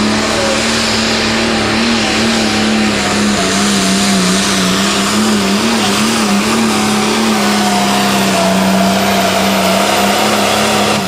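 Diesel pulling tractor running flat out under load on a pull, its engine note held high and steady with a slight wavering. Right at the end the pitch and level drop away sharply as the throttle comes off.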